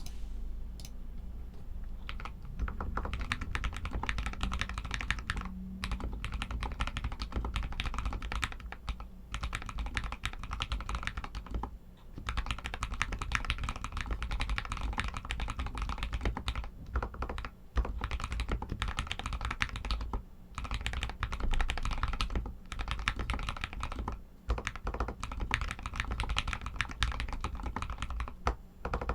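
Steady, fast typing on an RK61 mechanical keyboard with Outemu red linear switches: a dense run of key clacks, broken by a few short pauses of about half a second.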